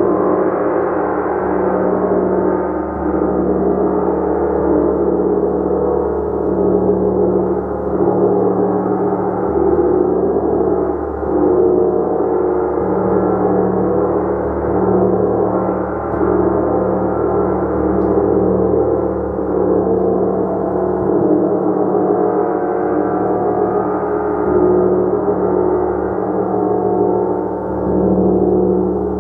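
Gong played continuously, a dense sustained wash of many overlapping tones that swells and eases every few seconds without distinct separate strikes.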